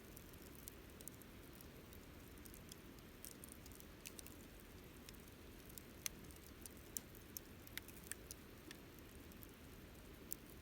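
Faint campfire crackling: scattered sharp snaps and pops, irregular and a little busier in the second half, over a soft low rush of burning wood.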